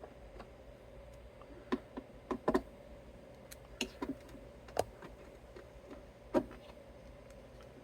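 Irregular light clicks and taps of small hardware being handled, about nine in all: screws and parts being lifted out and set down during a guitar teardown.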